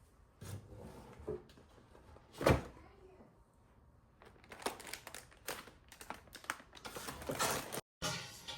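Household handling noises: a single loud knock about two and a half seconds in, then a busy run of rustling, crinkling and light clicks, cut off abruptly near the end.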